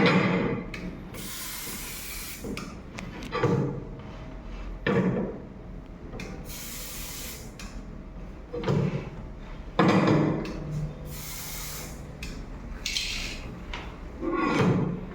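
Aerosol can of magnetic particle ink spraying onto a weld in about four short bursts of hiss, each about a second long, while the weld is being inspected for cracks.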